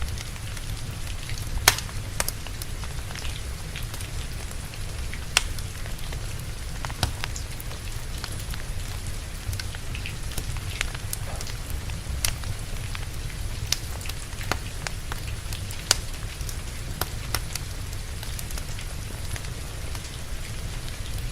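Steady rain mixed with a wood fire crackling: a constant low rumble and hiss with sharp, irregular pops from the burning logs, a few louder ones standing out about 2, 5 and 16 seconds in.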